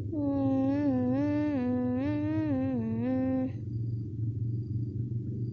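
A person humming a wordless tune in one unbroken line for about three and a half seconds, the pitch stepping up and down, over a steady low background rumble.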